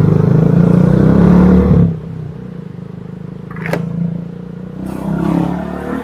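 Motorcycle engine running under way, picked up by a helmet-mounted external microphone. It is loud for about the first two seconds, then drops suddenly to a quieter steady running sound, with one sharp click a little past halfway.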